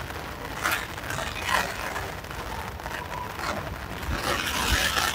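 Heavy rain falling steadily, mixed with scraping and rustling as a rooftop tent's canvas and frame are folded shut by hand. There are a couple of sharp knocks in the first two seconds, and the noise grows louder toward the end.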